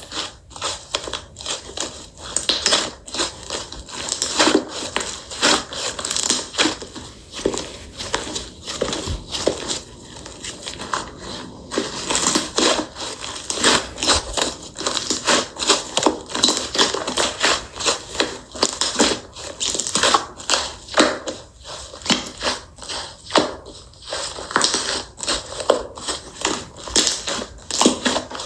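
Slime being squished and pressed by hand, giving a dense, irregular run of small clicks and pops.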